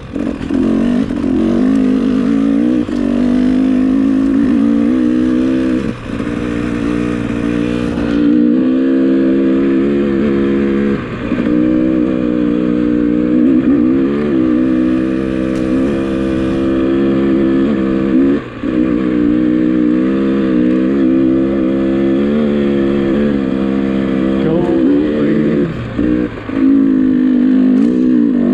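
Dirt bike engine running under load, its pitch dipping and climbing back several times as the throttle is rolled off and on again.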